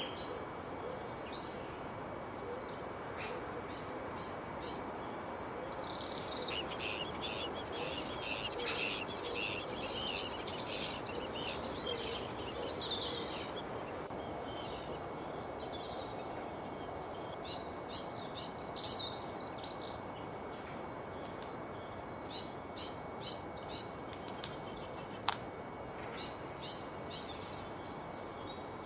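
Wild birds singing and chirping, a busy overlapping chorus in the first half, then short bursts of very high rapid chirps repeated every few seconds, over a steady background hiss.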